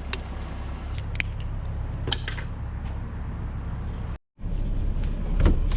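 Scattered light clinks and knocks of scrap metal being handled and picked through, over a steady low rumble. The sound cuts out completely for a moment about four seconds in.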